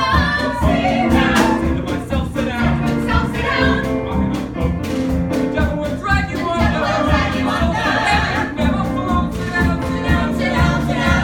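Several voices singing an upbeat show tune together over band accompaniment with a steady beat.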